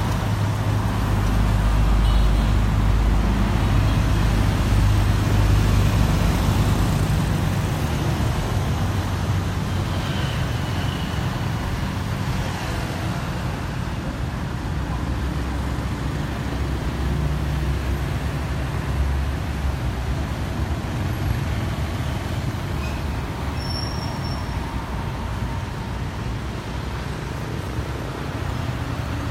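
Motor traffic with car engines running: a steady low engine rumble, loudest for the first several seconds and then easing off a little.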